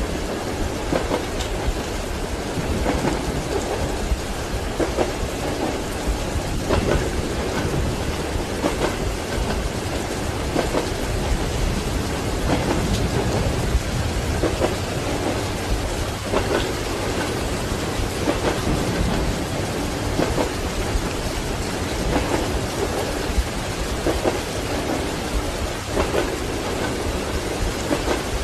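Steady heavy rain with rumbling thunder, layered over a train's wheels knocking on the rail joints about every two seconds.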